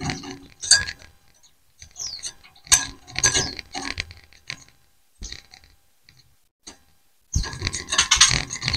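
A group of white-eyes twittering back and forth in short bursts of high chirps, mixed with scratchy rustling. The chatter turns dense and loud about seven seconds in.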